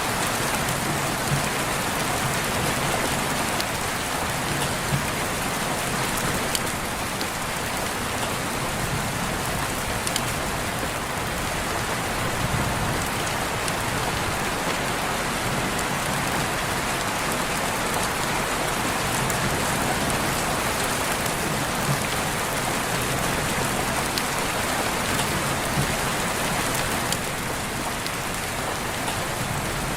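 Steady rain falling on surfaces, with scattered individual drops pattering.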